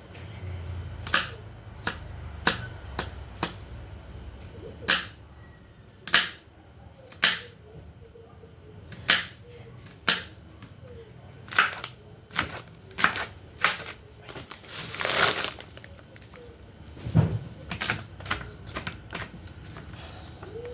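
Knife chopping an onion on a cutting board: irregular sharp knocks, roughly one a second, with a longer rasping sound about fifteen seconds in.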